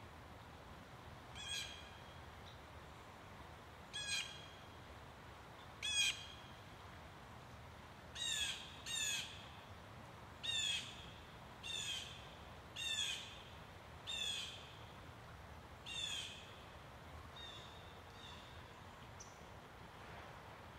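A bird calling over and over: about a dozen short calls, one to two seconds apart, the last few fainter.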